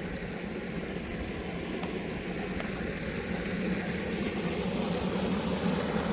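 Steady rush of running water, growing slightly louder near the end.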